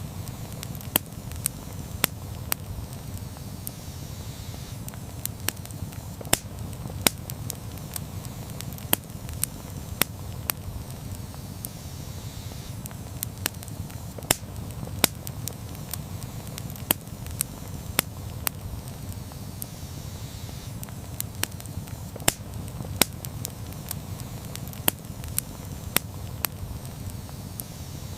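Campfire crackling: sharp, irregular snaps and pops of burning wood, one or two a second, over a steady low rumble from the flames.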